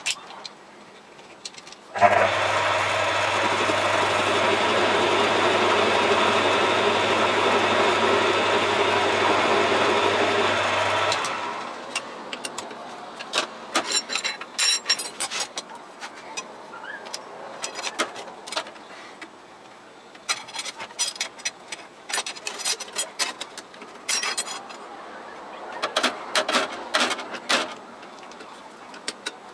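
A metal lathe starts suddenly about two seconds in and runs steadily with a whine for about nine seconds, then is switched off and winds down. After that come scattered clicks and knocks, as of metal parts and tools being handled.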